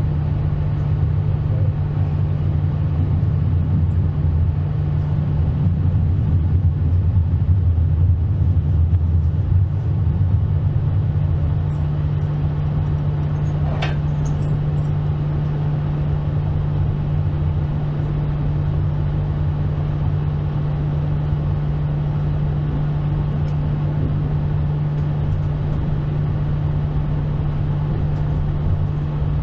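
Regional passenger train running, with a steady low hum and rolling noise, the lower part of the hum easing about ten seconds in. A brief high squeal rises out of it about fourteen seconds in.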